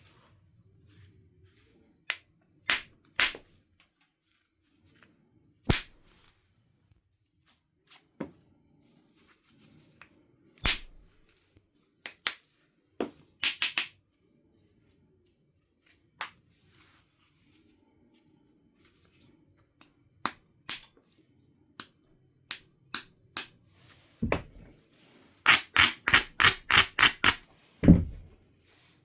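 Flintknapping on a Knife River flint biface: scattered sharp clicks and knocks of a knapping tool on the stone. Near the end comes a quick run of about nine light strikes, framed by two heavier knocks.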